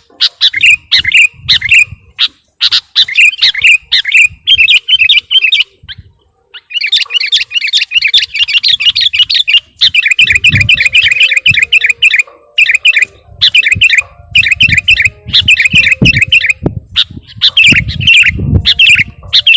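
Sooty-headed bulbul (kutilang) singing continuously: rapid, chattering runs of quick high notes in bursts with short pauses, one long unbroken run in the middle. Low thumps sound beneath the song in the second half.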